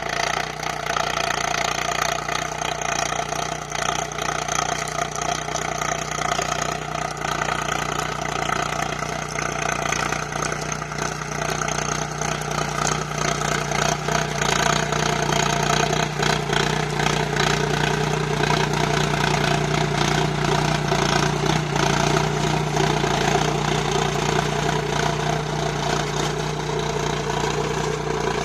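Sonalika DI 745 Sikander tractor's 50 hp diesel engine running steadily at an even speed, as when pulling a deep plough.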